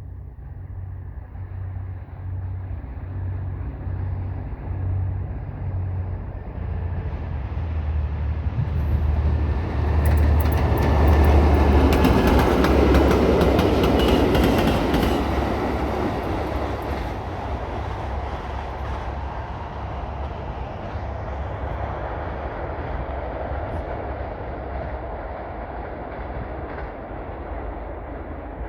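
T44 diesel-electric locomotive (EMD V12 two-stroke diesel) approaching with a throbbing engine that grows louder, loudest as it passes about halfway through. It is followed by the freight wagons rolling past with rail clatter that slowly fades.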